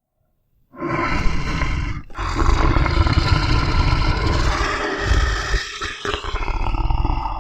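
A large wild animal roaring loudly, in a short roar about a second in and then a long, rough roar after a brief break.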